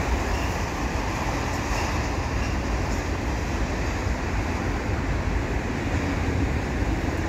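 Autorack cars of a CN freight train rolling steadily past, a continuous rumble of steel wheels on the rails.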